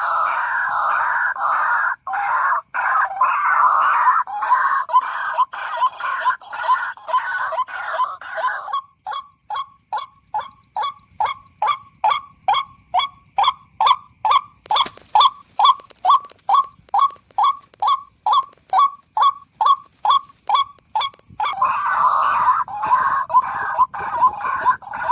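White-breasted waterhen calls: a dense run of harsh, overlapping croaking calls that gives way about a third of the way in to a steady series of short single notes, about three a second. The croaking run comes back near the end.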